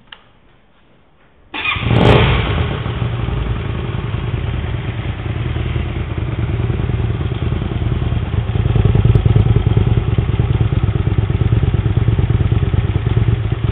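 Hyosung GT125R's 125 cc V-twin starting about a second and a half in, with a brief surge as it catches, then idling steadily through a straight-through, empty stainless steel exhaust can. It echoes in an enclosed workshop unit.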